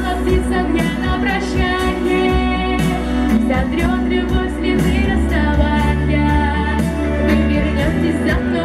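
A pop song with a woman's voice singing over band backing, with a steady bass and regular drum beats.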